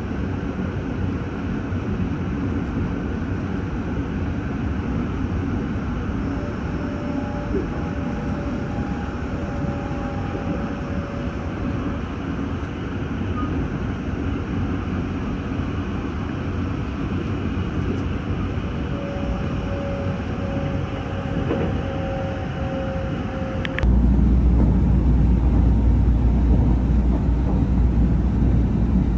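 Steady running noise of the Sunrise Izumo sleeper train, a 285 series electric train, heard from inside the car: a low rumble of wheels on rail, with a faint steady hum that comes and goes twice. Near the end it cuts suddenly to a louder, deeper rumble.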